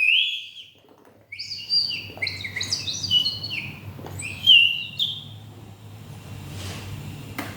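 Toy water bird whistle with a little water inside, blown to give a bird-like warble. It gives a short wavering note, then, after a brief pause, a run of quick chirps stepping up and down in pitch for about four seconds; the water inside is what turns its plain whistle into this trill.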